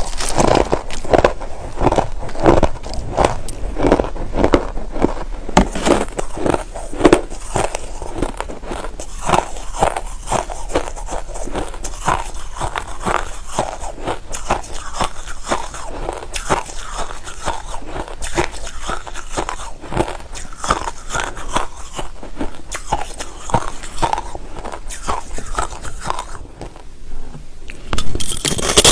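White crushed ice being bitten and chewed close to the microphone: a dense run of crisp crunches, several a second, with a short lull near the end.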